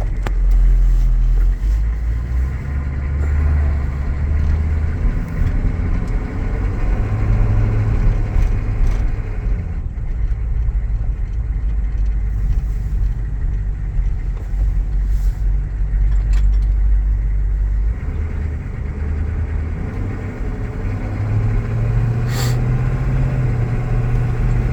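GM 6.5-litre turbo-diesel V8 in a 1997 Chevrolet Tahoe running while the truck is driven, with a steady low engine note that shifts a few times as the load changes. A single sharp click comes near the end.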